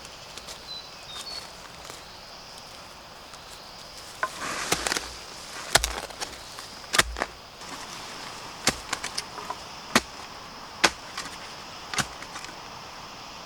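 A series of sharp chopping strikes, a cluster and then single blows about a second apart, over a steady high insect drone.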